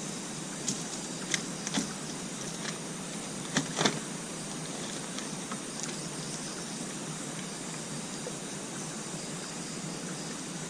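Night insects, crickets, chirring steadily, with about six sharp clicks or knocks in the first four seconds, the loudest two close together near the end of that run.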